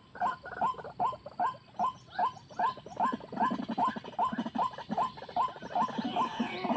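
White-breasted waterhen calling: a fast, even run of short rising notes, about three a second, with lower notes pulsing beneath.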